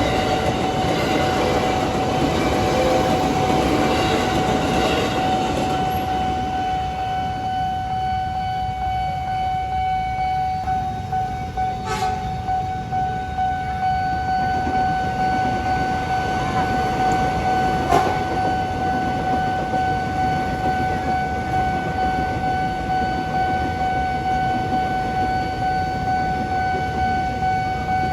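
A train running past and fading away over the first several seconds, while the level crossing's electronic warning alarm keeps sounding with a steady tone throughout. Two sharp clicks come partway through.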